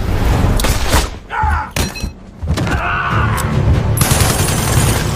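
Film action soundtrack: a volley of gunshots and heavy impacts with shattering, over a music score. The loudest strikes come in a cluster in the first two seconds, with another near the middle and a dense barrage near the end.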